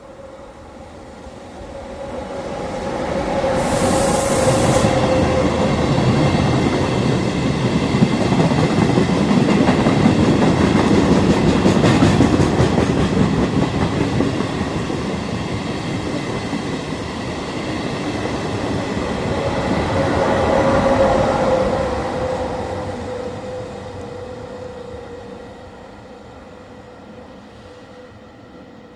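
A train with an E464 electric locomotive at each end passes while slowing down. A steady electric whine goes by about four seconds in, then the coaches run past with wheel-on-rail rumble and clatter. A second whine passes about twenty-one seconds in, and the sound then fades away.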